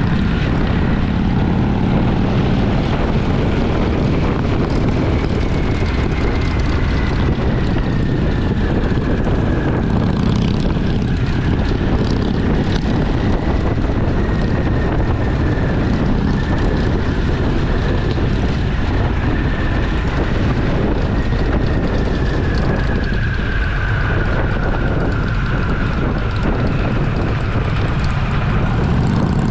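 Twin-cylinder motorcycle engine running steadily under way, a continuous loud drone with a faint whine that wavers slightly in pitch.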